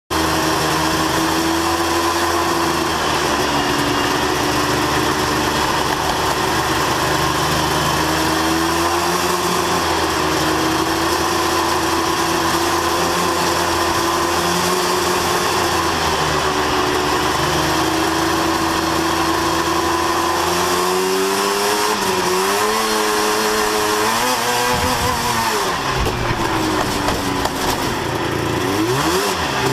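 Sport racing truck engines running at speed in practice, a steady loud drone for about twenty seconds. After that the engine pitch rises and falls repeatedly, as the revs climb and drop.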